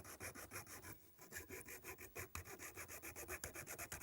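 Hacksaw cutting through a thin wooden rod (a dowel) resting on a wooden block, in quick, even back-and-forth strokes, about six a second, with a brief break about a second in.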